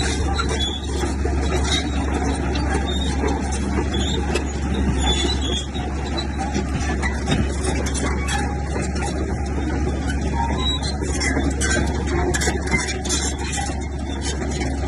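Komatsu crawler bulldozer at work: its diesel engine runs steadily with a deep rumble, with many short clicks and squeaks from the steel tracks over it.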